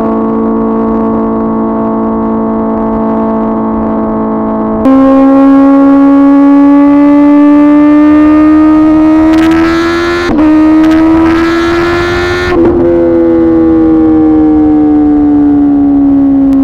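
2024 Kawasaki ZX-10R inline-four running through an SC-Project CRT exhaust while riding. The engine holds a steady pitch for about five seconds, then steps up and climbs under throttle, with a brief dip near ten seconds. It then falls away slowly as the revs drop. A rushing noise rises over the engine for a few seconds in the middle.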